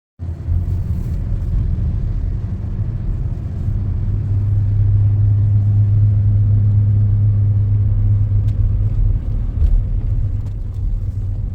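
A motor vehicle running with a steady low rumble of engine and road noise.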